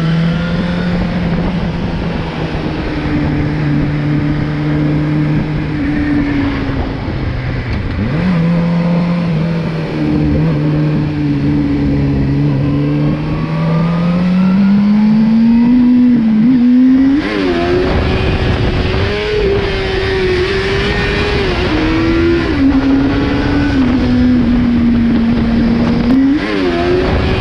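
Motorcycle engine heard from the bike's own on-board camera. It runs steadily, then climbs in revs through the gears for about three seconds partway through and keeps pulling hard. From then on the rush of wind grows loud as speed builds.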